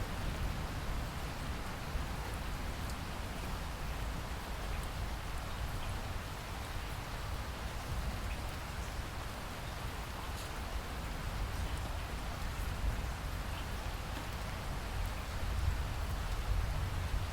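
Steady rain falling, with scattered drop ticks over a low, even rumble.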